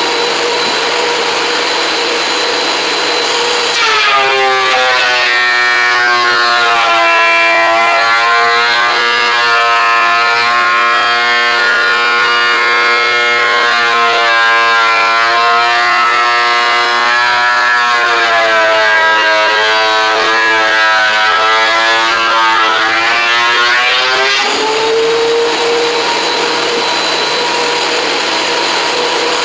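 WEN 13-inch three-blade benchtop thickness planer running with a steady high whine; about four seconds in a board feeds through and the motor's pitch drops and turns rough under load for about twenty seconds, then rises back to the free-running whine near the end as the board clears the cutterhead.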